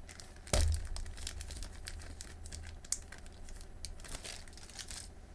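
Packaging crinkling and rustling as small parts are handled, with a sharper knock about half a second in and scattered small clicks.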